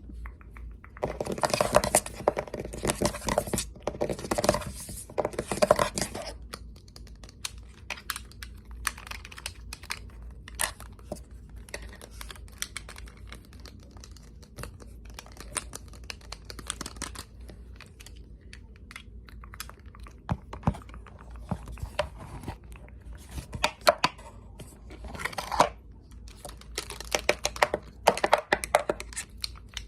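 Fast ASMR triggers close to the microphone: four dense rustling, scratching bursts in the first few seconds, then quick scattered taps and clicks, with more bursts of scratching and tapping near the end.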